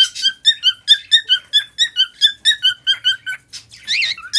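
Male cockatiel singing a fast, even run of short whistled chirps, about three or four a second. Near the end it gives one longer call that rises and falls.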